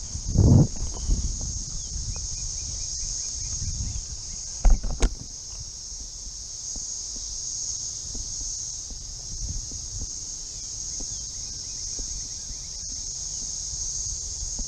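Steady high-pitched drone of a cicada chorus, unbroken throughout, with heavy low thumps of handling or wind on the microphone about half a second in and again around five seconds in.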